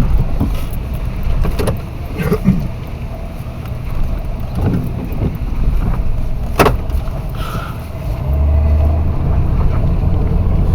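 Car running, heard from inside the cabin: a steady low engine and road rumble, with one sharp click about six and a half seconds in and the rumble growing louder near the end.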